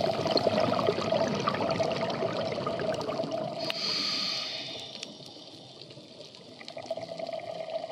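Water sounds, bubbling and trickling, with many scattered clicks and a steady tone underneath; it goes quieter around five to six seconds in, then picks up again.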